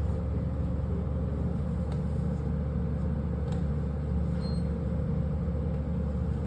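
Steady low hum of background machinery, with a short high electronic beep about four and a half seconds in.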